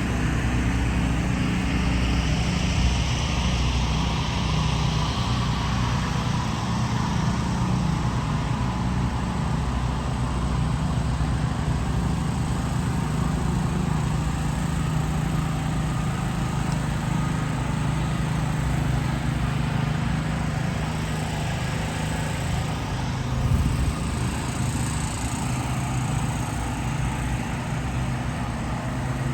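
Motor vehicle running steadily, its engine drone under a constant road-noise hiss, with one brief louder bump near the end.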